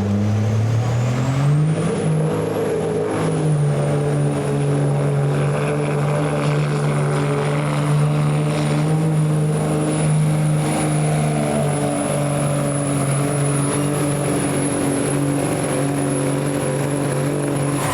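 Pulling truck or tractor engine at full throttle during a pull. Its note climbs over the first two seconds, then holds steady for about sixteen seconds under a high, thin whistle, and both cut off near the end.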